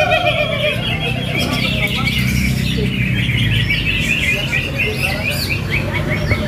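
Many caged greater green leafbirds (cucak hijau) singing at once at a songbird contest: a dense chatter of overlapping chirps and trills, turning into a quick run of repeated notes from about three seconds in, over a low steady murmur of crowd noise.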